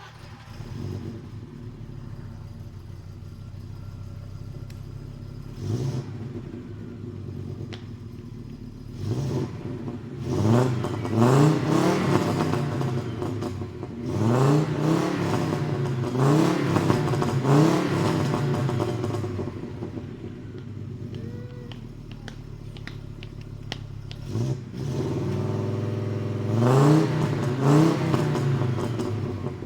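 Audi 2.0 five-cylinder engine through a half straight-through exhaust, idling and revved again and again in short blips, its pitch rising and falling with each one. The revs cluster in a long run through the middle and again near the end.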